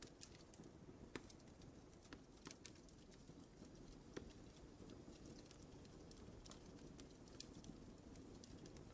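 Wood fire crackling in a fireplace: faint, irregular pops and snaps, a few a second, over a steady low rumble of burning.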